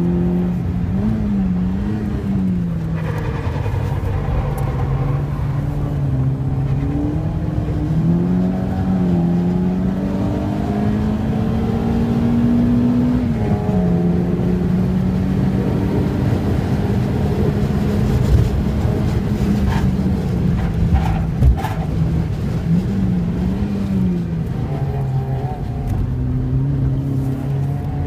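Peugeot 106's engine heard from inside the cabin under hard driving, its revs climbing and dropping repeatedly with gear changes, over road and wind noise. A few sharp clicks come about two-thirds of the way through.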